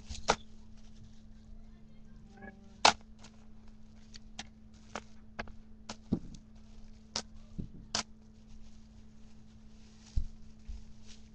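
Scattered sharp clicks and knocks of firework packages being handled and set down, about a dozen in all, with a steady low electrical hum underneath.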